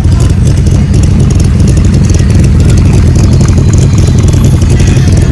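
A car engine idling steadily, loud and close.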